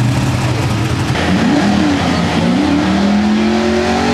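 Modified 4x4 pulling truck's engine running at a steady low pitch, then about a second in it revs up in a few quick blips and climbs steadily to high revs.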